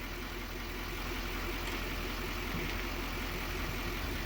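Steady engine noise from the 1966 Ford F500's industrial 240 inline-six, even and unbroken throughout.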